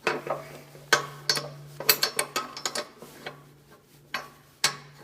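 Steel parts of a log splitter clanking and rattling as they are handled and fitted during assembly: a string of sharp metal knocks, some ringing briefly, with a quick run of clicks around the middle, over a steady low hum.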